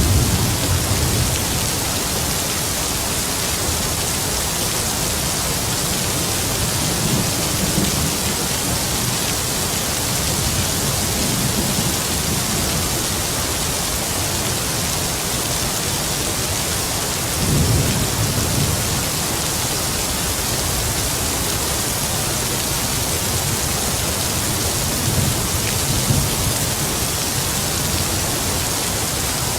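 Steady heavy rain hissing, with low rolls of distant thunder rumbling up several times, the strongest about 17 to 18 seconds in.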